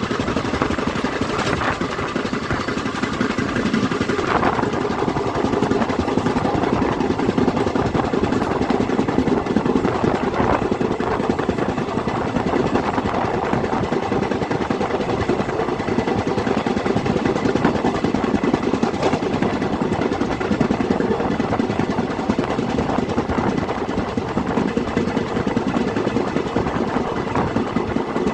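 Steady running noise of a vehicle's engine, unbroken throughout, with a few faint knocks.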